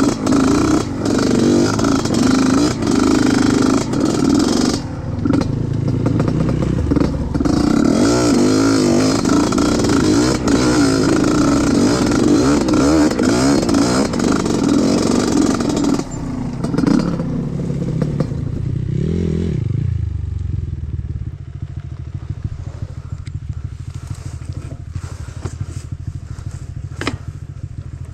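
Off-road trail motorcycle engine running hard, its revs rising and falling as it works up the trail. About sixteen seconds in it eases off, and from about twenty seconds it runs quieter and steadier.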